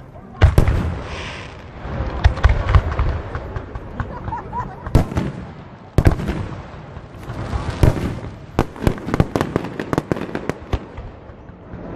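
Fireworks display: aerial shells bursting with loud bangs about half a second in and again around five and six seconds in, with rumbling between them, then a rapid run of crackling pops from about eight to eleven seconds.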